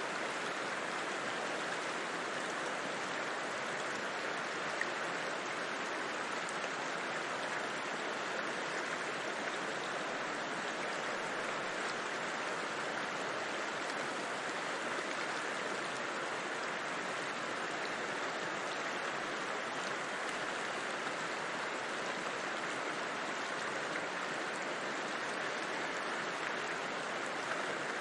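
River flowing: a steady, even rush of water that does not change.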